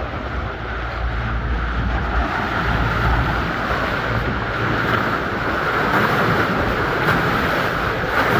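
Strong wind buffeting the microphone over rough water splashing around a moving river boat, with a steady low rumble underneath.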